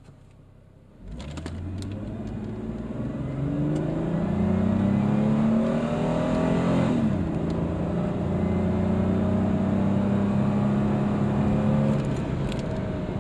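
2002 Ford Mustang 3.8L V6 on its stock exhaust manifolds, heard from inside the cabin, accelerating at full throttle from a standstill. The engine note climbs steadily, drops sharply about seven seconds in as the automatic shifts up, climbs again and falls near the end.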